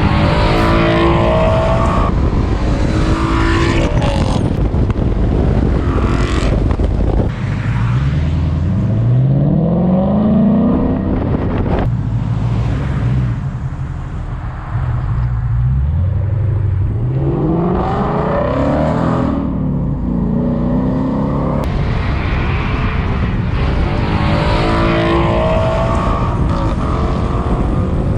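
Ford Mustang GT's 5.0 V8 running through an aftermarket cat-back exhaust, loud throughout, with two long pulls where the engine note rises as it accelerates.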